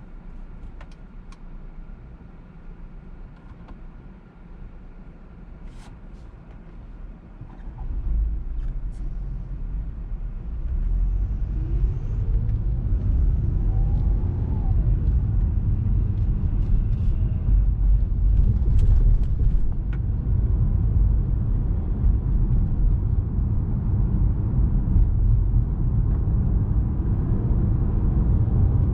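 Lexus RX 200t on the move, its 2.0-litre turbocharged four-cylinder (8AR-FTS) and road noise making a low rumble. It is quiet at first, swells about eight seconds in, and gets louder again a few seconds later with a faintly rising engine note as the car speeds up.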